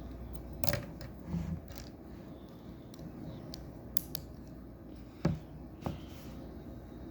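Plastic Lego pieces being handled and snapped together: a few scattered clicks and taps, the sharpest about five seconds in, over a low steady hum.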